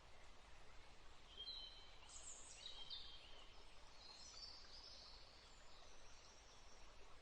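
Faint birdsong: several short, high chirping and trilling phrases starting about a second in, over a soft steady hiss.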